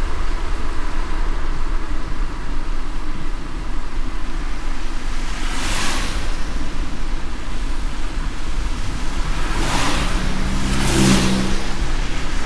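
Steady low rumble of a car driving on a rain-wet road, with brief swishes about six seconds in and twice near the end.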